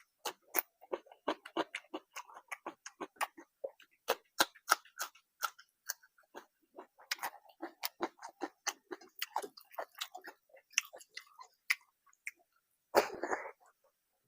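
Close-up chewing and mouth sounds of a person eating curry and rice: a dense, irregular run of wet clicks and crunches. About a second before the end comes one louder, brief noisy sound.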